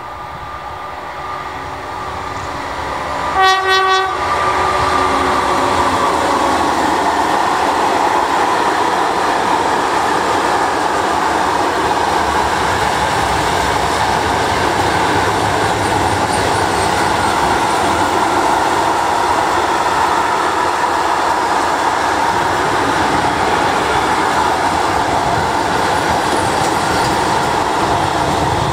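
A freight train approaches and the locomotive sounds a brief horn blast about three and a half seconds in. A long string of empty flat wagons then rolls past close by, making a steady, loud noise of wheels on rail.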